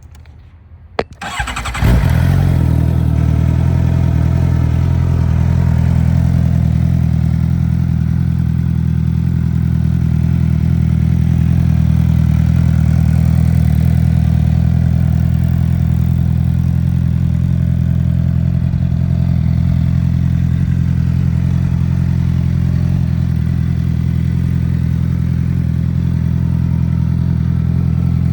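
Suzuki GSX-R750 inline-four sportbike engine through an aftermarket CS Racing exhaust: a couple of clicks, then it cranks and fires up about two seconds in and settles into a steady, loud idle.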